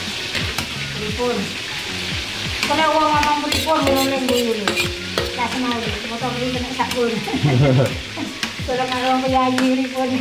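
Food frying and sizzling in a pan while it is stirred, the utensil clicking against the pan again and again. A gliding, melodic pitched sound, voice or music, runs over it from about a second in.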